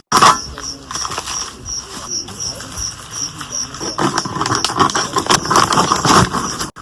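A cricket chirping steadily, about three high chirps a second, under a clatter of short knocks and rustling that grows louder in the second half.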